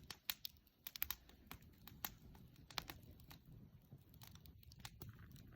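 Faint crackling of a wood bonfire: irregular sharp pops and snaps of burning wood over a low, steady rush of the flames.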